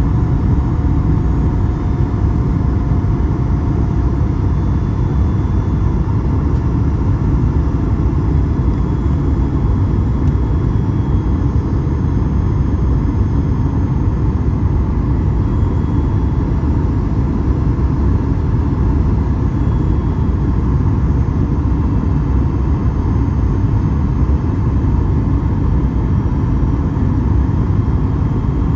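Steady low cabin rumble inside a Boeing 737 MAX 8 in flight: engine and airflow noise, unchanging, with a faint steady hum above it.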